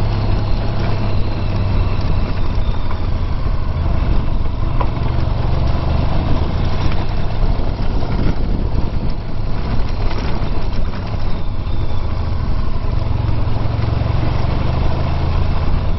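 Honda VFR1200X Crosstourer's V4 engine running steadily while riding, under a constant rush of wind and road noise.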